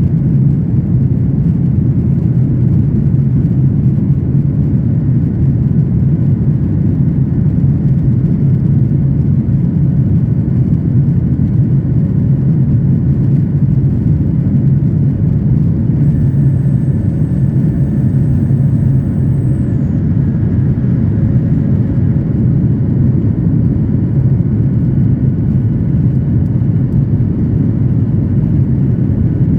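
Jet airliner cabin noise heard from a window seat: a loud, steady low rumble of engines and airflow.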